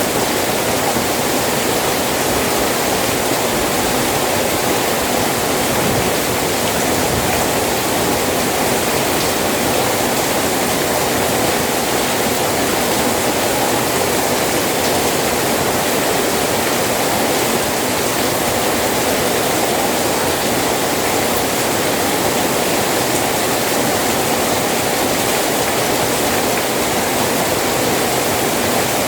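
Steady rain falling: an even, unchanging hiss with no separate drops, thunder or other events.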